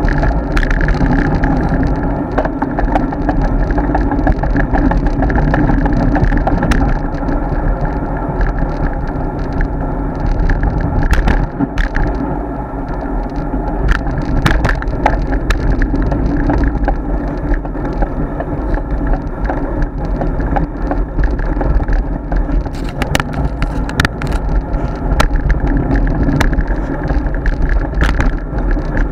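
Riding a road bike, heard through an action camera's microphone: steady wind noise and road rumble, with scattered sharp clicks and rattles throughout.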